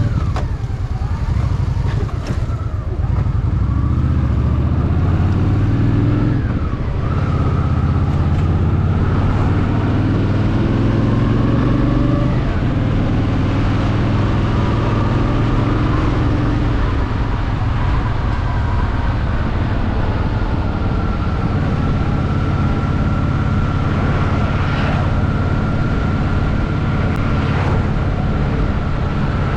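Honda Shadow VT750's V-twin engine running while riding, its pitch rising and falling with throttle and gear changes in the first dozen seconds, then steadier.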